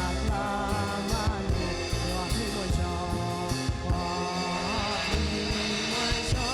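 Gospel worship music played by a band with drums, and a singer holding wavering notes over the steady beat.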